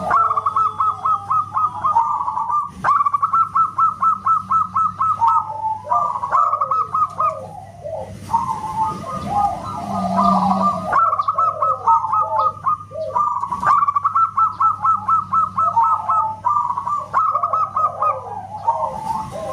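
Zebra doves (perkutut) cooing: fast runs of short staccato notes mixed with lower rolling coos, the same song sequence coming round again about every eight seconds.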